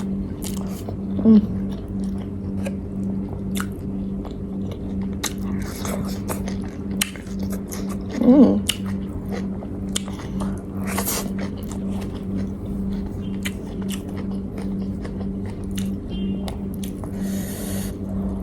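Close-miked chewing and biting of food, with many small wet mouth clicks, over a steady low electrical-sounding hum. There are two brief louder sounds, about a second in and about eight seconds in.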